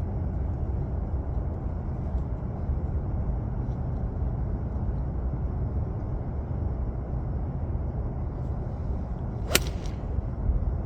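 Strong wind buffeting the microphone with a steady low rumble. About nine and a half seconds in, a single sharp click as an 18-degree utility club strikes the golf ball.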